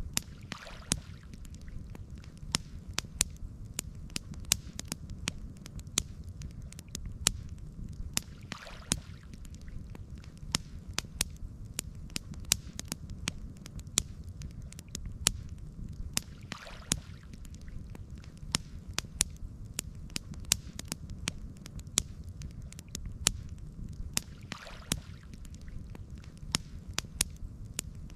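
Campfire crackling, with sharp wood pops several times a second over a low steady rumble, and a soft whoosh about every eight seconds.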